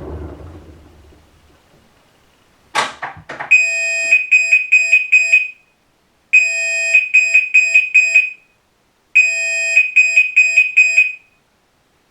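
Whirlpool Cabrio top-load washer, which has a bad drum bearing, as its spin rumble fades to nothing; then a few sharp clicks and the end-of-cycle signal: a held electronic tone followed by about four short beeps, played three times, marking the cycle finished.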